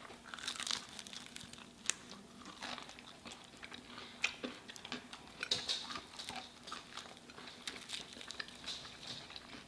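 Close-up chewing and crunching of crispy fried chicken: irregular crackles and crisp snaps of breading, some louder bites among softer chewing.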